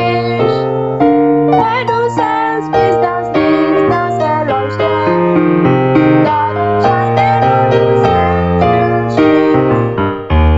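Piano-style keyboard music playing a continuous melody with chords.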